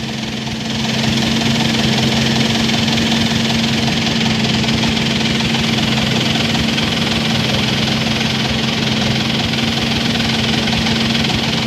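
Combine harvester engine running steadily under load, rising a step in level about a second in, as one harvester strains to tow a second one mired in mud, which keeps failing to come free.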